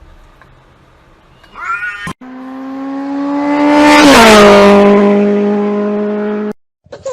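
Cat yowling: a short call, then one long drawn-out yowl that swells and drops in pitch partway through before cutting off.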